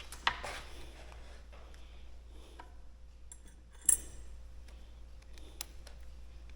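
Small metal washers and screws being handled and set in place: a few light clicks, with one sharp metallic clink about four seconds in.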